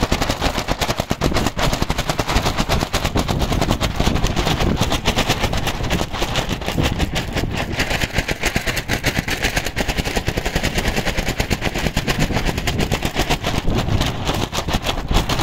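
Heavy rain falling close to the microphone: a dense, fast, irregular crackle of drops striking over a steady hiss.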